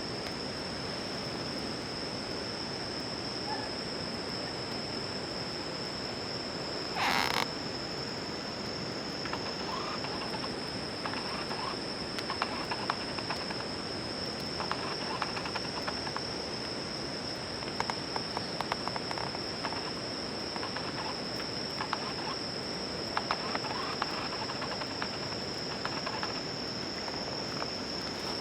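Insects trill steadily on one high note while a wood fire crackles with small irregular snaps, thickening from about a third of the way in. A short hiss-like burst comes about a quarter of the way in.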